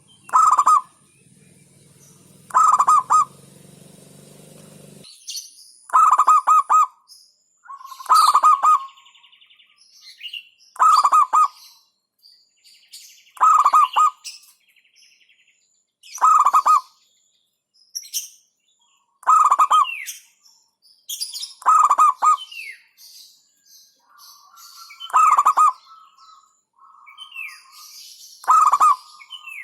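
Zebra dove (perkutut) cooing over and over: a short burst of rapid, clipped notes repeated about every two and a half seconds. Fainter, higher chirps and trills come between the phrases.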